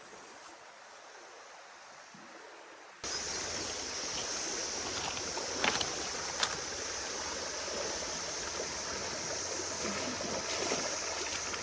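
Steady river water running, with a high, even drone of cicadas over it. The sound steps up abruptly about three seconds in, and there are two sharp clicks or light splashes around six seconds in.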